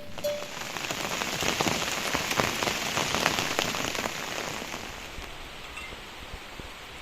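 Rain falling, with many separate drops ticking on a surface. It is heavier through the first few seconds and lighter near the end.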